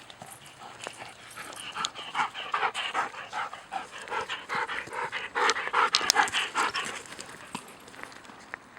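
A dog panting quickly and rhythmically, about three to four breaths a second, winded from playing fetch. The panting starts about a second and a half in and fades out near the end.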